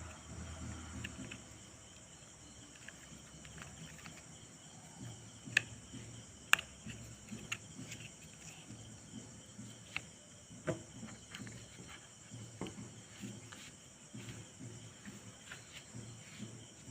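Scattered light clicks and knocks from hand work on a car's steering parts, over a faint steady hiss. Two sharper clicks come about five and a half and six and a half seconds in.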